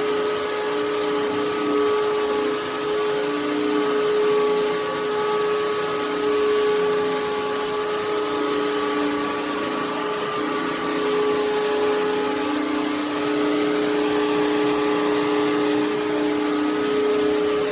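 BISSELL CrossWave Cordless Max wet-dry vacuum-mop running steadily, a steady motor whine over the rushing air, with a lower hum that swells and fades.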